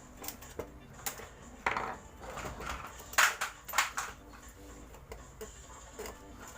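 Scattered clinks, knocks and short scrapes of small hard parts being handled, with a cluster of sharper knocks a little past three seconds in.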